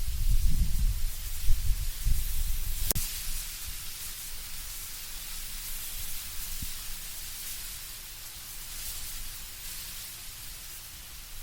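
Wind blowing through autumn trees, leaves rustling with a steady hiss. Low gusts rumble over the first few seconds, then ease. A single sharp click comes about three seconds in.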